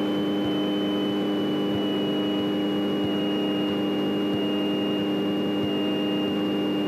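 Light piston airplane engine running steadily at taxi power, heard through the cockpit intercom as an even drone with a faint high whine that drifts slightly lower.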